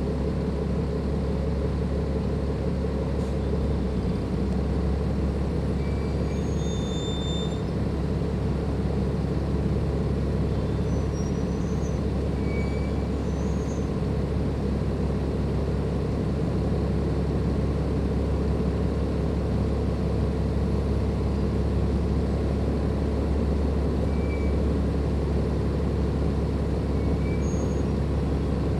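Cummins ISLe diesel engine of a Dennis Enviro 500 double-decker bus running steadily, a constant low drone with no revving.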